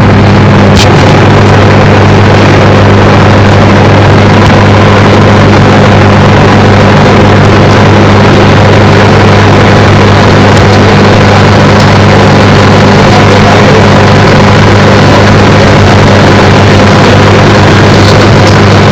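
Microwave oven running with a loud, steady hum.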